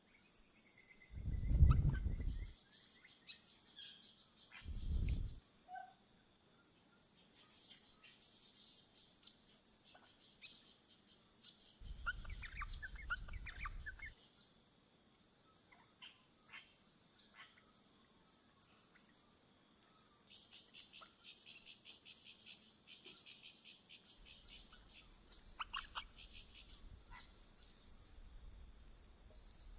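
Wild birds chirping and twittering, a dense run of rapid high notes throughout. Two low thumps come about 2 and 5 seconds in, with a low rumble in places later on.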